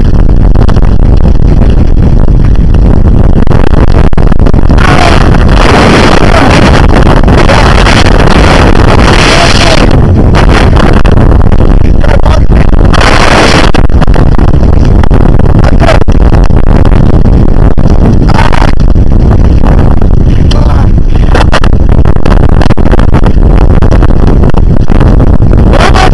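Gale-force mountain wind battering the microphone: a constant loud roar with harder gusts about five seconds in and again around thirteen seconds.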